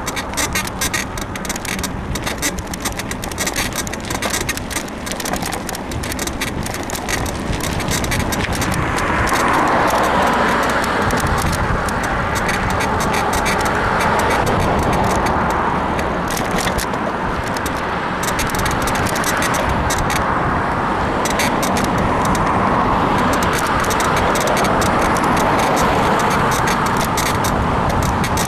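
Road noise heard from a moving full-suspension bicycle. Traffic swells up twice as vehicles pass. Through the first third there is a rapid ticking and creaking from the bike's frame, which the rider puts down to a worn suspension bushing.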